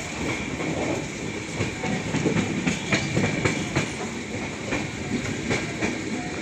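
Indian Railways LHB sleeper coach of an express train running, heard from inside by the window: a steady rumble of wheels on rail with a faint high whine. A run of clickety-clack rail-joint clicks comes through the middle.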